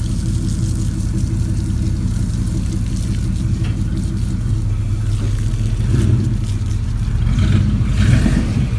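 A car engine running with a steady low rumble, swelling briefly a couple of times near the end.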